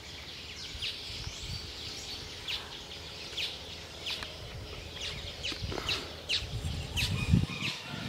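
Small birds chirping: a steady string of short, high, falling chirps. A low rumble comes in and peaks near the end.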